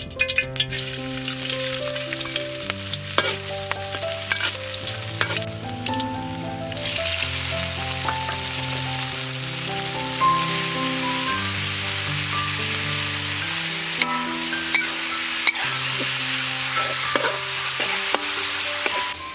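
Chopped garlic and spring onions sizzling loudly in hot oil in a wok from about seven seconds in, then sliced cow heart stir-frying, with the spatula knocking against the wok now and then. Soft background music with held notes plays underneath.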